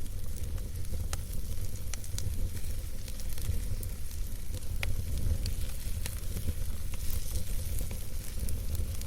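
Wood campfire burning: a steady hissing crackle over a low rumble, with sharp single pops every second or so.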